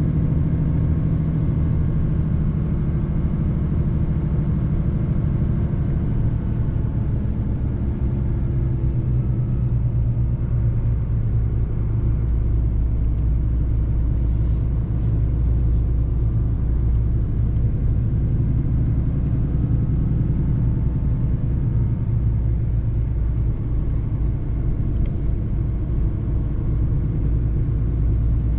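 Mercedes-Benz truck's diesel engine running under way with road noise, a steady low rumble. The engine note drops slightly about eight seconds in.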